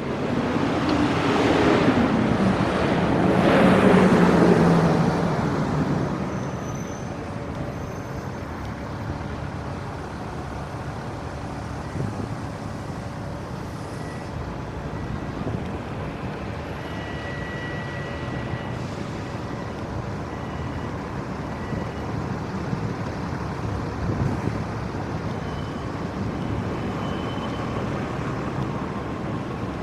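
Street traffic: a vehicle passes close by in the first few seconds, getting louder and then fading with its engine note falling, then a steady hum of traffic.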